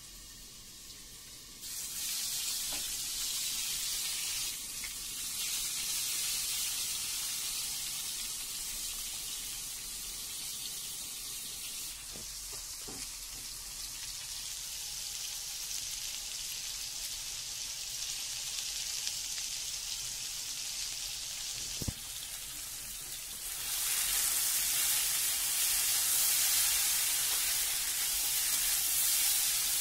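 Cubed pumpkin, potato and onion frying in hot oil in a black kadhai, giving a steady sizzle that starts suddenly about two seconds in as the vegetables go into the oil. A single sharp knock comes a little past two-thirds of the way through, and the sizzling is louder after it.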